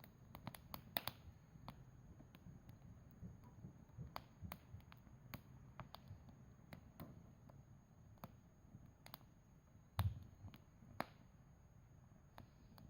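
Campfire crackling faintly, with irregular sharp pops and snaps scattered through it. One louder pop with a low thud comes about ten seconds in.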